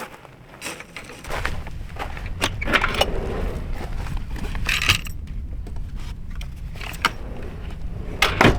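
Clinks, clicks and rustles of objects being handled, over a low steady rumble that starts about a second in.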